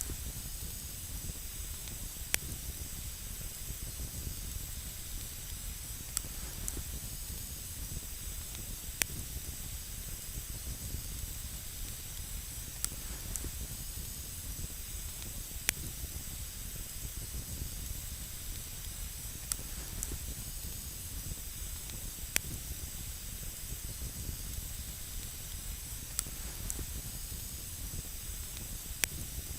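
Campfire burning with a steady hiss and a low rumble, with single sharp crackles popping every few seconds.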